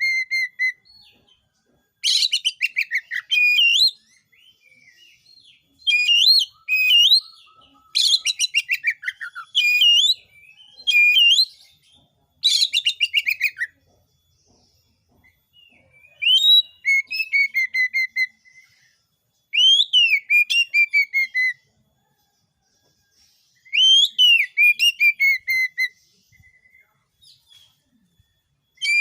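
Oriental magpie-robin (kacer) in full song: phrases of whistled notes that glide up and down, mixed with fast trills, each phrase a second or two long and separated by short pauses.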